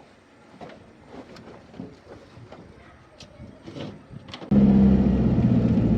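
A few faint clicks and knocks, then about four and a half seconds in, a truck engine comes in suddenly and loud, running steadily with a low hum.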